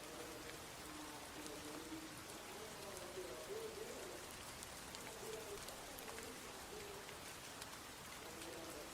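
Steady rain falling on surfaces: an even hiss with scattered sharp drop ticks. Faint low, wavering pitched sounds come and go beneath it.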